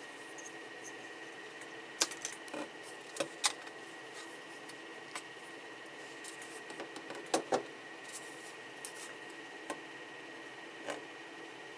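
Scattered sharp clicks and small cracks of a 3D-printed eSun ePLA HS part being handled while its support material is snapped off. The loudest come in pairs about 2 and 7.5 seconds in, over a steady faint hum.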